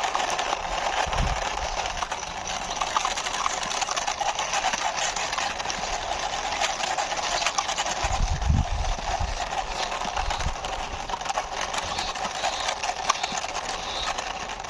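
Plastic toy truck's wheels rolling along a hard surface as it is pushed by hand: a steady, rattly rolling noise with fine ticks, with a few low thumps about a second in and again around eight to ten seconds in.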